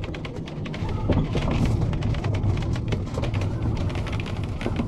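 Big raindrops striking the glass and roof of a tractor cab, heard from inside as a dense run of sharp, irregular ticks over a low steady rumble.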